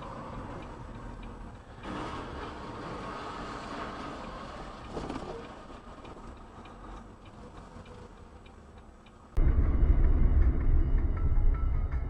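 Car's hazard-light relay ticking steadily inside the cabin over a faint engine hum. About nine seconds in, the sound cuts abruptly to a much louder low rumble of a car driving.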